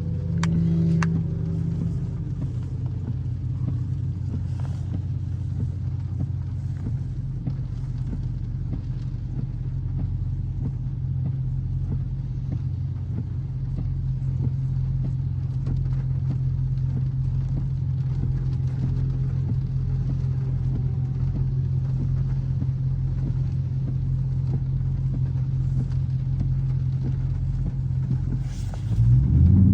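Dodge Charger R/T's 5.7-litre HEMI V8 running steadily on the move, a low drone heard from inside the cabin, swelling briefly louder near the end.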